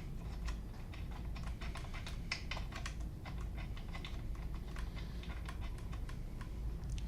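Small irregular metallic clicks and ticks as a new spark plug is turned by hand into the threaded spark plug hole of a string trimmer's engine, over a steady low hum.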